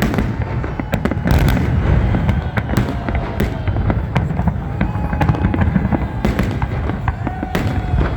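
Fireworks salute: a dense, continuous rumble of booming shell bursts with many sharp cracks throughout.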